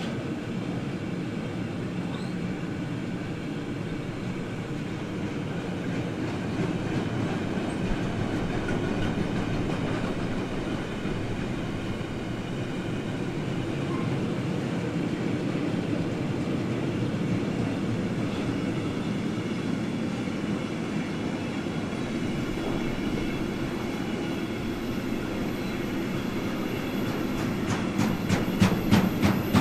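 Freight train of loaded double-deck car-transport wagons rolling past, a steady rumble of steel wheels on rail. Near the end comes a quick run of wheel clicks over a rail joint.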